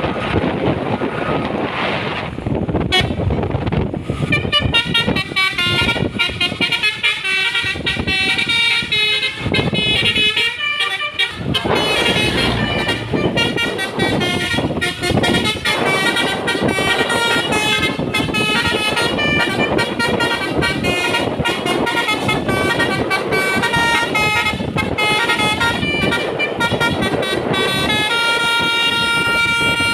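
A truck's "basuri" multi-tone musical air horn playing a melody of quick changing notes over road and engine noise, starting about four seconds in.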